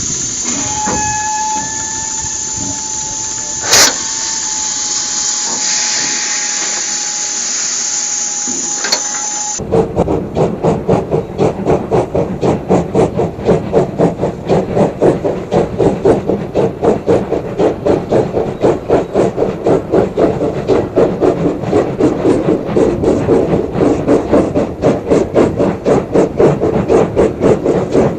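Steam locomotive: steam hissing with a long steady whistle blast held for about eight seconds, then an abrupt switch to fast, regular exhaust chuffing.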